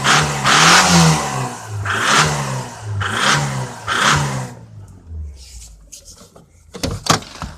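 Jeep Comanche pickup engine revved in short blips about once a second, each rising and falling in pitch. About four and a half seconds in it drops back to a quiet idle, and a couple of sharp clacks follow near the end. The engine is one its owner shows for knocking and smoking.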